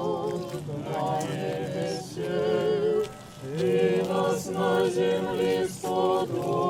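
A group of voices singing an Orthodox chant in phrases, with short breaks between them, during an Easter cross procession.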